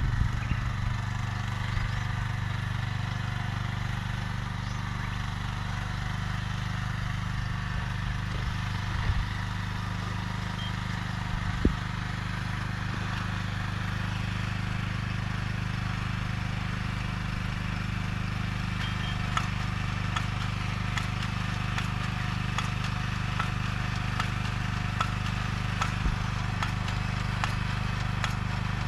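Small engine of a vegetable-seedling transplanter running steadily at a constant speed, with light clicks and rattles on top that come more often in the second half.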